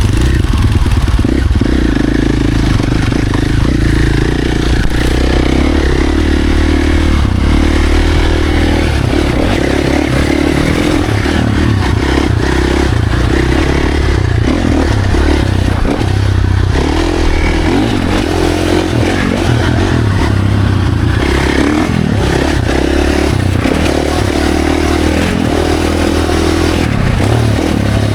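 Dirt bike engine revving hard, its pitch rising and falling again and again as the rider works the throttle and gears, with rattling and clatter mixed in.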